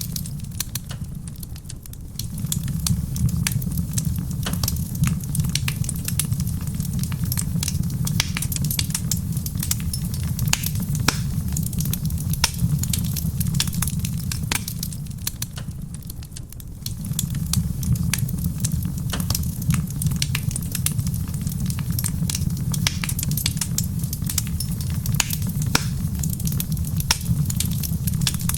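Wood fire in a stone fireplace crackling and popping with many quick, irregular snaps over a steady low rumble. The rumble dips briefly about two seconds in and again about halfway through.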